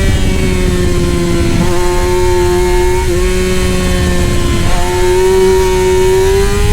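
Racing superbike engine running hard at high revs, one steady high engine note that sags slowly in pitch, with two brief hitches in the note, then climbs again near the end.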